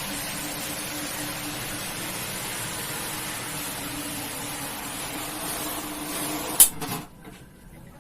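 A machine running with a steady hiss and a low hum, switched off with a sharp click near the end, after which the noise stops quickly.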